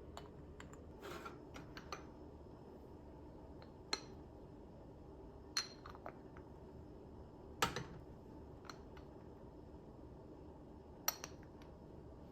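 Kitchenware being handled: scattered clinks and knocks of dishes and utensils, four of them sharper than the rest, over a low steady hum.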